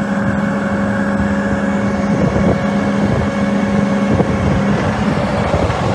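Case IH Magnum tractor's diesel engine running at a steady speed, a constant drone.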